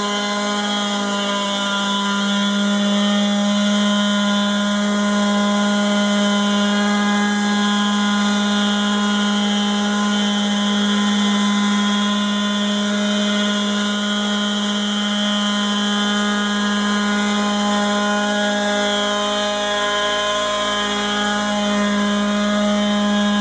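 Radio-controlled HB-7 Helibug helicopter with a gasoline-engine conversion in flight: the small gas engine runs at a steady high speed, with a slight shift in pitch about twenty seconds in.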